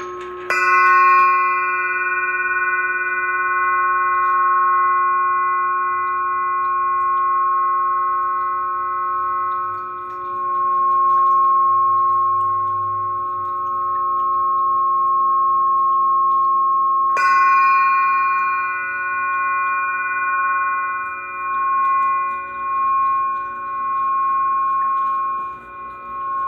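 Glass singing instruments ringing in long steady pure tones at several pitches, with a low tone held throughout. One is struck about half a second in and again about 17 seconds in, each strike adding a bright ring of higher tones. Near the end the tones swell and fade in slow waves.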